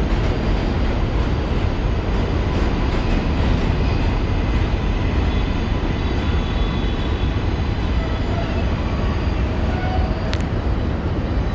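R68 subway car running between stations, heard from inside: a loud, steady rumble of steel wheels on rail.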